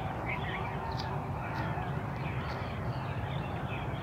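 Birds calling in short, scattered calls over a steady low rumble.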